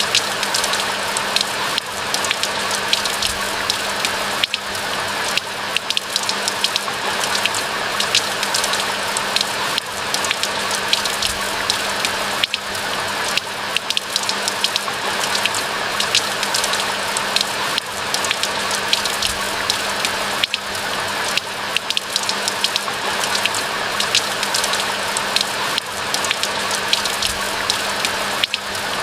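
Steady rain falling in a pine forest: an even, continuous hiss dotted with many small individual drop ticks.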